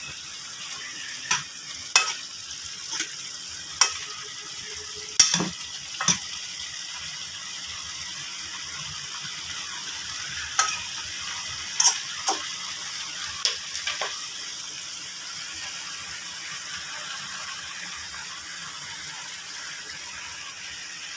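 Broccoli and red and yellow capsicum sizzling steadily in a hot wok. A utensil clacks against the pan about a dozen times in the first fourteen seconds as the stir-fry is tossed. After that only the steady sizzling goes on.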